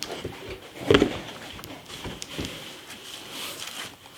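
Packaging and parts of a new flux-core welding machine being handled: scattered knocks and rustling, with a louder knock about a second in.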